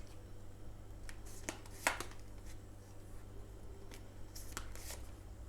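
Tarot cards being shuffled and handled, with a few sharp card snaps, two close together about two seconds in and a cluster near the end, over a low steady hum.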